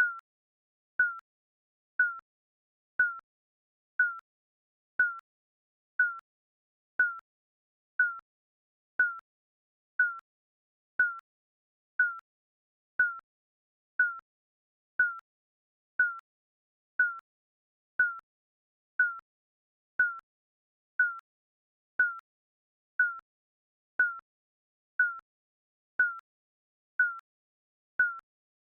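Digital countdown timer beep sounding once every second: a short, high single-pitched blip that fades at once, with silence between beeps.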